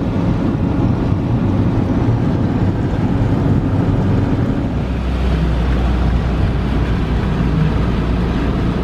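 Car running on the road, heard from inside the cabin: a steady low rumble of engine and tyres. About halfway through the rumble deepens into a steadier, lower drone.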